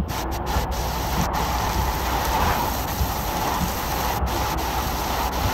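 Heavy rain driven by strong gusty wind, a dense steady hiss over a low rumble of wind buffeting the microphone.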